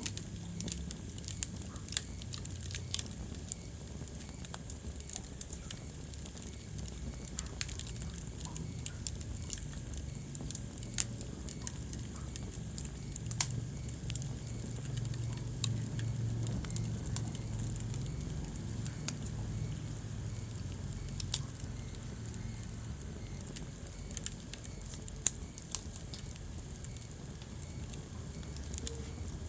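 Wood fire burning in a fireplace, crackling with irregular sharp snaps and a few louder pops over a steady low rumble.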